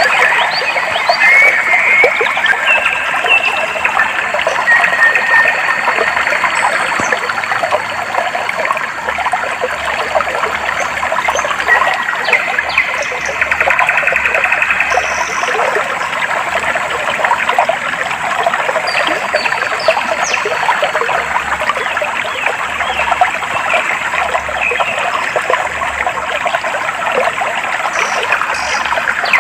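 Clear stream water flowing and trickling steadily over stones, a dense even splashing. Short bird chirps and calls come through above it now and then.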